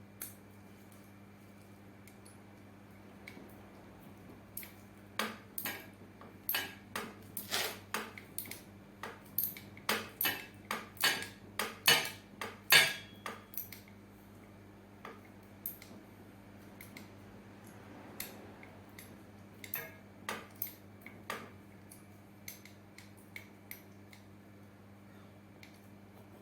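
An irregular run of sharp metallic clicks and clinks, like small tools or metal parts being handled and set down. They start about five seconds in, come fast and loudest around the middle, then thin out to a few scattered ticks. A steady low hum runs underneath.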